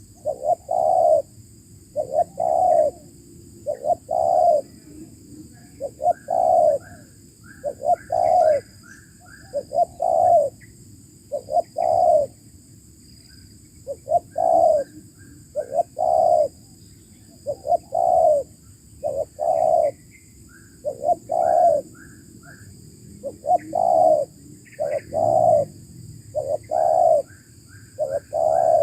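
Spotted dove cooing, its low coo notes repeated in a steady, even rhythm. Fainter, quick, higher-pitched notes from another bird come between the coos.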